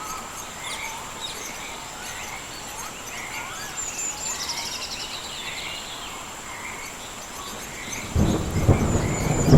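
Rainforest ambience: a steady high-pitched insect drone with repeated short chirping animal calls and trills, then about eight seconds in a sudden loud crack and rumble of thunder.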